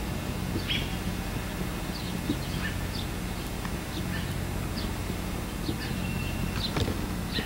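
Birds chirping now and then, short high chirps scattered through, over a steady low hum. There is one sharp knock near the end.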